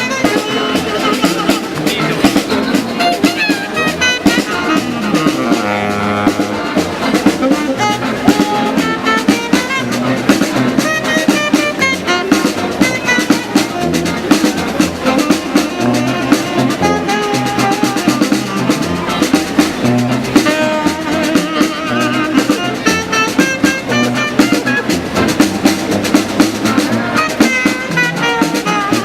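Street band playing a funky tune, with drums keeping a steady beat under the melody.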